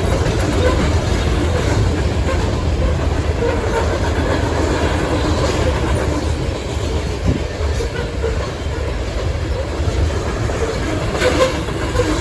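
Loaded coal train rolling past: a steady heavy rumble of the laden hopper cars, with wheels clacking over rail joints a few times.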